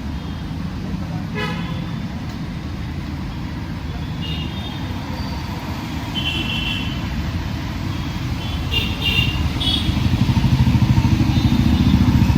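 City road traffic: a steady rumble of engines with several short horn toots, and an engine getting louder near the end as a vehicle passes close.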